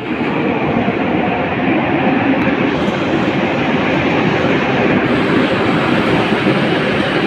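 A train running on rails: steady, loud noise of wheels and running gear that keeps up without a break.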